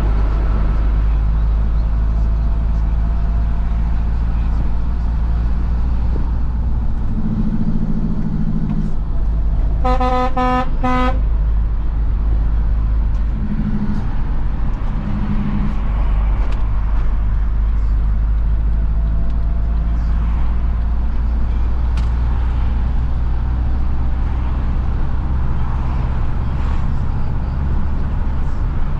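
Isuzu FRR90 truck's diesel engine running steadily under way, with a horn giving three short toots about ten seconds in.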